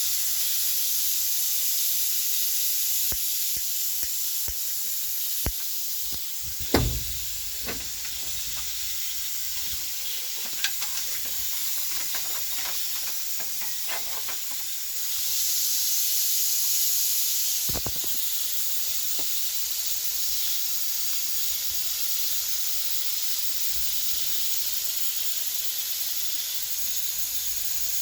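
Steady steam hiss in the cab of the GR-280 narrow-gauge steam locomotive, swelling louder about fifteen seconds in for a few seconds, with a few scattered knocks, the sharpest about seven seconds in.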